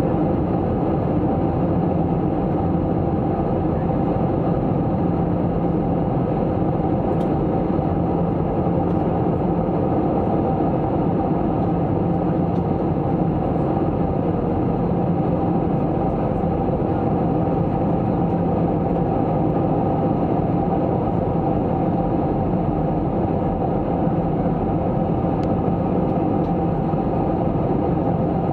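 Airbus A321-200 cabin noise: the steady drone of the jet engines and airflow heard from inside the passenger cabin, with a low hum and a few constant tones and no change in level.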